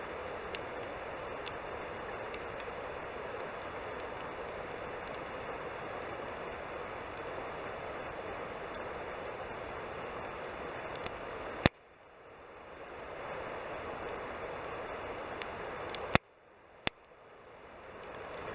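Wood campfire burning with a steady hiss and scattered small crackles. Two loud sharp pops come about two-thirds of the way through and near the end, the second followed by a smaller one. After each big pop the background dips away and swells back over a couple of seconds.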